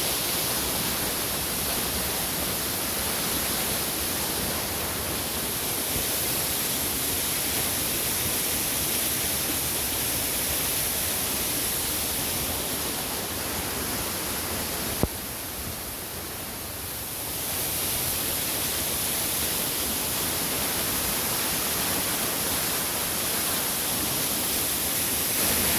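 Waterfall in full flow after days of rain in the mountains, a steady rushing of falling water. About halfway through there is a click and the rush drops a little for a couple of seconds before returning.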